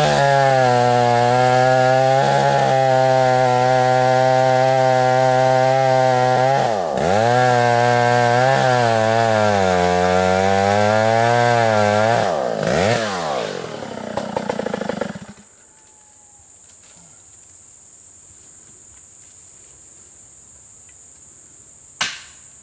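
Stihl 056 two-stroke chainsaw running at high revs while cutting through a large dead elm, its pitch sagging and picking up again several times under the load. It winds down and stops about fifteen seconds in, and two sharp cracks follow near the end.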